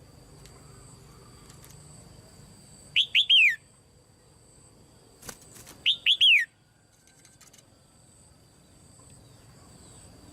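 Red-whiskered bulbul calling: a short phrase of three quick notes, each sliding downward, given twice about three seconds apart.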